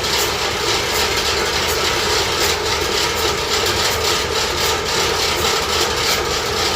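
Engine running loudly, with a rough, rapid clatter over a steady low hum.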